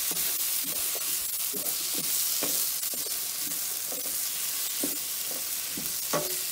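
Vegetables and ground spice masala sizzling as they fry in oil in a nonstick pan, while a wooden spatula stirs and scrapes them across the pan about twice a second.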